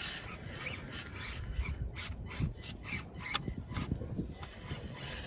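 Small RC crawler trucks working over rocks: tyres and plastic bodies scraping, rubbing and clattering on stone in a steady rasp broken by many small irregular clicks.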